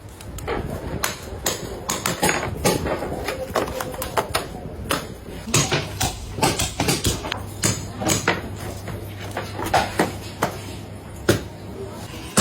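Irregular knocks and clacks from manual and machine work on the factory floor, over a steady low hum, with voices in the background.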